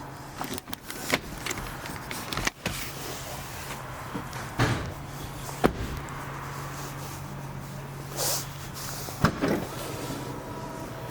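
BMW X5 being worked by hand: a series of sharp clicks and knocks and a couple of brief whooshing swells, over a steady low hum.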